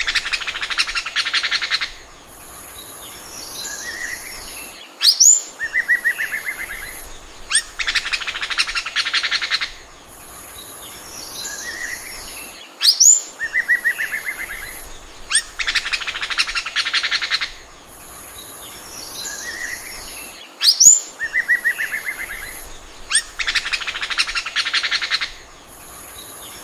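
Oriental magpie-robin singing a repeated phrase: a sharp rising whistle, a rapid rattling trill about two seconds long, then scattered chirps and a short stuttering run of notes. The phrase comes round about every eight seconds.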